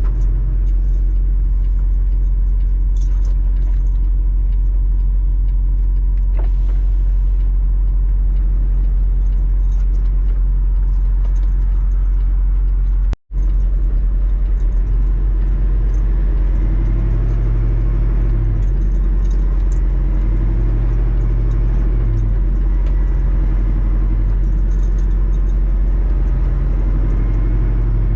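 Steady low drone of a semi truck's engine and road noise heard inside the cab while driving, with faint small clicks and rattles. The sound drops out for an instant about halfway through.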